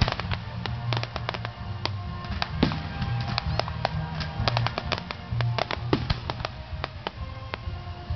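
Music playing with a steady low bass under it, mixed with many sharp pops and crackles from fireworks bursting throughout.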